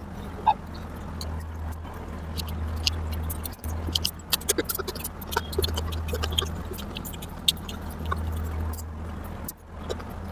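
Close-up eating sounds: irregular wet mouth clicks and smacks of chewing curry and rice, over a steady low hum.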